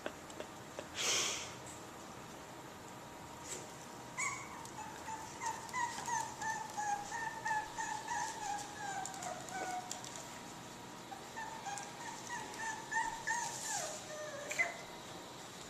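A young Boston Terrier puppy whining: a long, high, wavering whimper starts about four seconds in, breaks off briefly, then resumes and drops in pitch at the end. A short scuff comes about a second in.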